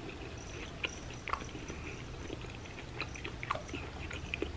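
Close-miked, mouth-closed chewing of a Cheetos-crusted ham and potato croquette: faint small mouth clicks, scattered and irregular.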